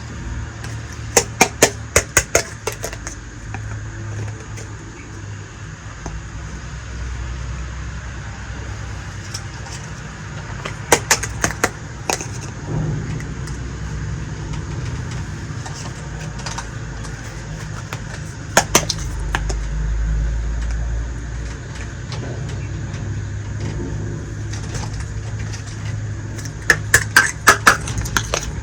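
Small miniature toy kitchen pieces clicking and clacking together in four short bursts of sharp taps, over a steady low rumble.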